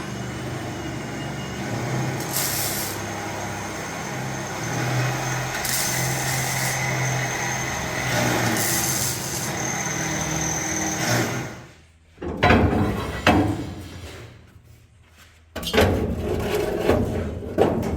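Metal shop work: a power tool runs steadily, rasping against sheet metal, with several short bursts of hiss. About twelve seconds in it cuts off, and loud knocks and metal clatter follow.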